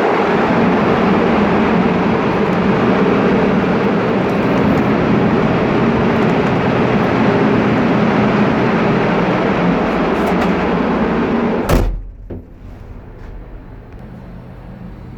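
Loud, steady din of ship's engine-room machinery with a constant hum. About twelve seconds in comes a sharp knock, and the din drops to a much quieter low hum.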